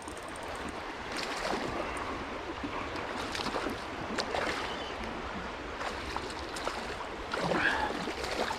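Creek water running, with scattered splashes and small clicks as a hooked smallmouth bass is fought and brought in by a wading angler; a louder stir of water comes near the end.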